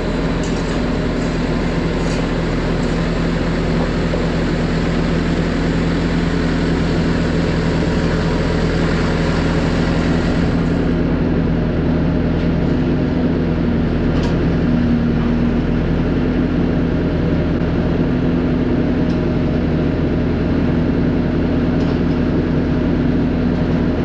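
Large farm machine's diesel engine running steadily at a constant speed, with a steady low hum and no change in pitch.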